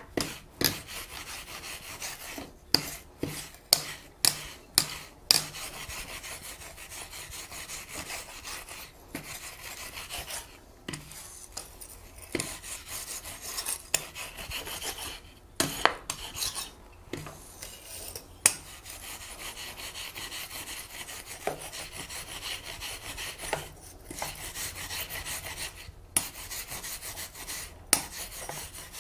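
Rasping, scraping strokes on a small forged metal bell ornament, with sharp metal taps and clinks scattered throughout, several in quick succession in the first few seconds.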